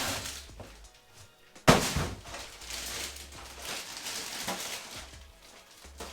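Unboxing an exhaust fan: a single loud thunk about two seconds in, then a few seconds of rustling and handling of the box and its packaging.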